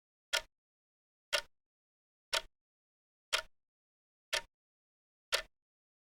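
Clock ticking: one short, sharp tick each second, six in all, with dead silence between them.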